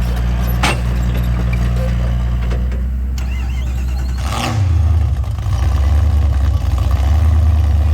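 Mud-racing truck's engine running at a steady low idle, then revving up and running louder about halfway through.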